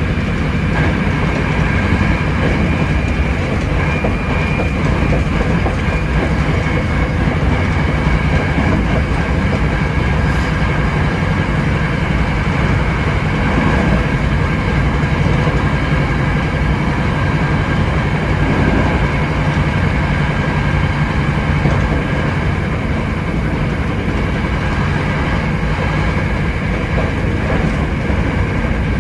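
Hankyu 7300 series electric train running at a steady speed, heard from the cab: a continuous rumble of wheels on rail with a steady whine held at one pitch.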